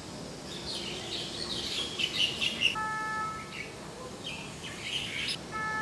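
Small birds chirping, with two steady electronic beeps from the start-gate timer, a longer one about three seconds in and a shorter one near the end.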